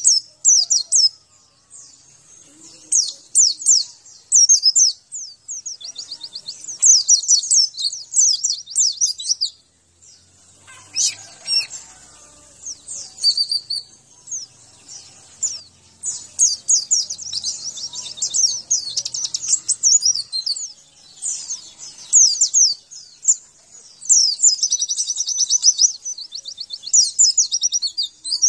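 Pleci (white-eye) song: rapid, high, twittering phrases delivered in bursts with short pauses between them.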